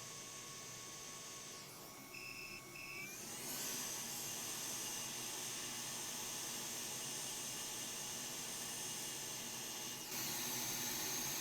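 Hot air rework station blowing steadily while desoldering a shorted MOSFET from a laptop motherboard. Two short beeps come about two and a half seconds in. The airflow grows louder about a second later and again near the end.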